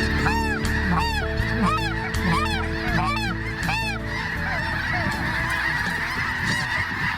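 Snow geese calling: a dense chorus of high, yelping honks from a large flock. A run of loud calls comes about every two-thirds of a second over the first four seconds, over a steady low rumble.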